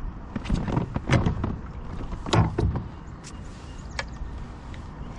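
A handful of sharp, irregular knocks on and around a fishing kayak, the loudest about a second in and again near the middle, over a low wash of wind and water.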